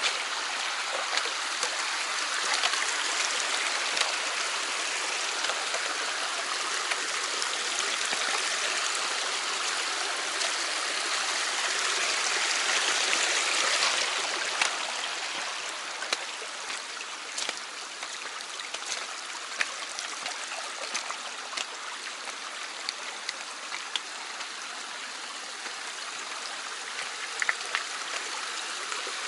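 Mountain stream rushing and splashing over rocks in a steady wash, a little louder for the first half and easing slightly about halfway through, with scattered small sharp ticks over it.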